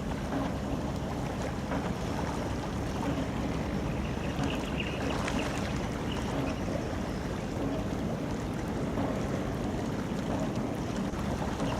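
Steady low rumble of a large container ship under way, mixed with the wash of water and wind noise.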